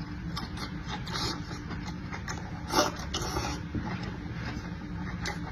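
Close-up eating sounds: chewing and slurping, with scattered short smacks and clicks, the loudest a little before the middle, over a steady low hum.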